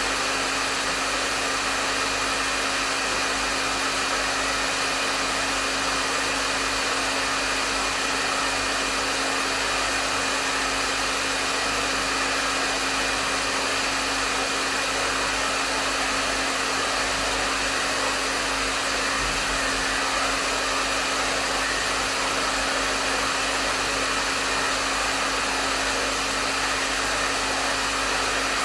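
Hair dryer running steadily: a continuous rush of airflow with a low motor hum underneath, unchanging in level.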